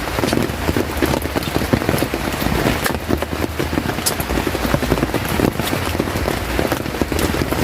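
Heavy rain falling steadily, with many sharp individual drop hits over a dense wash of noise.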